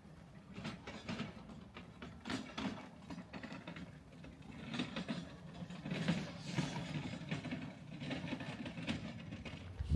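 Town street ambience: a low vehicle rumble that swells and fades in the middle, with scattered irregular clicks and knocks.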